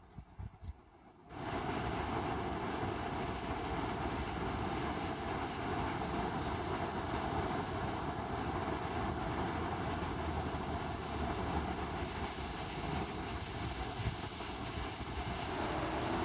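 Strong wind rushing, coming in suddenly about a second in and then blowing steadily.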